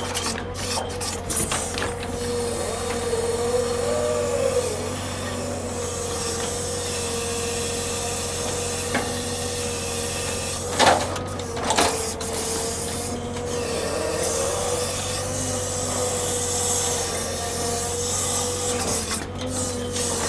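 Heavy log-unloading machinery running with a steady whine over a rushing noise. Two sharp knocks come about a second apart near the middle.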